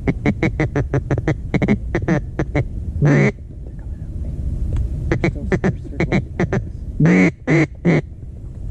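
A hunter's duck call blown to lure circling ducks: a fast run of short quacks, a longer quack at about three seconds, another fast run, then three long loud quacks near the end.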